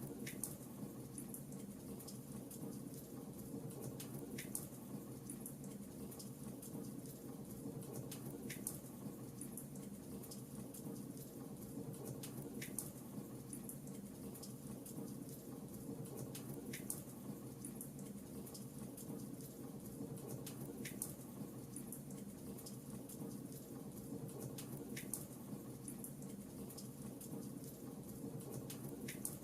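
Fireplace fire burning with a steady low crackling hiss, and a sharp pop about every four seconds.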